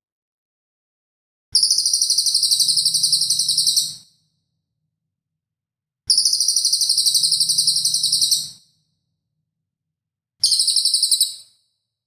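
Songbird training recording: three bursts of sharp, high-pitched notes repeated rapidly, about eight a second, the first two each lasting over two seconds and the last about one second, with silence between them.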